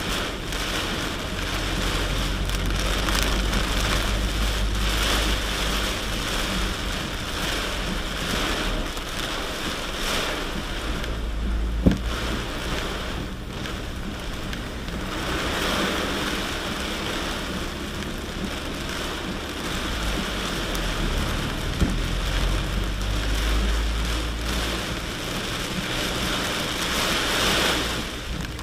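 Rain falling steadily on a truck while it drives, the engine's low rumble underneath, with two sharp knocks partway through.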